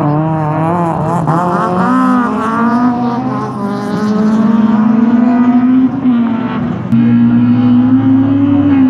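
Rally car engine revving hard, its pitch swinging up and down with the throttle for the first few seconds, then held at a high steady pitch, with a brief drop in pitch and level about six seconds in before it climbs again.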